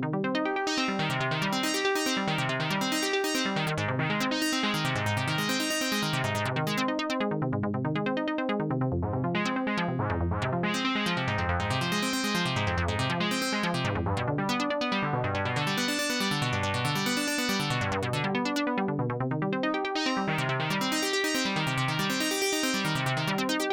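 Sequential Fourm compact four-voice analog polysynth playing a factory preset with no effects. A low repeating figure dips and rises in pitch about every second and a half, under bright upper tones that grow brighter and duller every few seconds.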